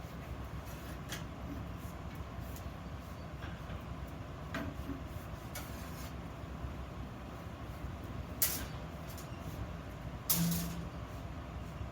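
Steady low hum with a few short, sharp metalwork noises, the loudest two near the end, during the making of small iron flower vases.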